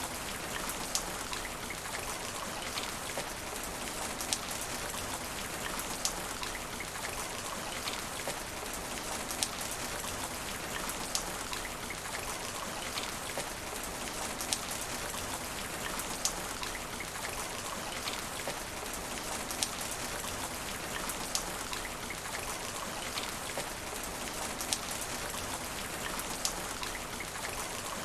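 Steady rain falling on asphalt, an even hiss with scattered sharp ticks of single drops striking close by.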